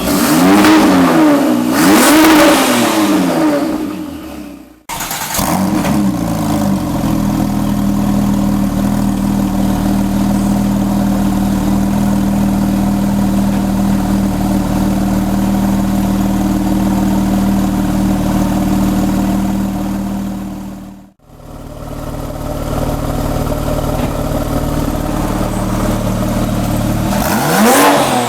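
Porsche 997 Turbo's twin-turbo flat-six exhaust: two quick blips of the throttle, then a long steady idle, and one more rev near the end. The sound breaks off briefly twice where the recording is cut.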